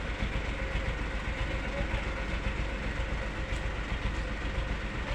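A steady rumbling noise, strongest in the low range, with a faint steady tone above it.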